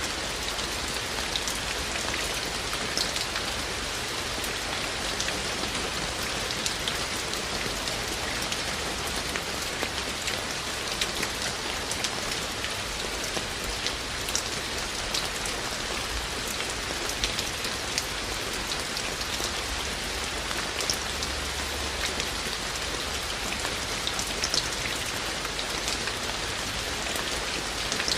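Steady rain falling, an even hiss with frequent sharper individual raindrop hits scattered through it.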